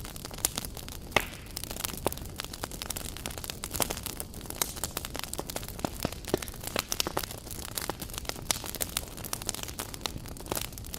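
Campfire crackling: dense, irregular pops and snaps of burning wood over a steady hiss.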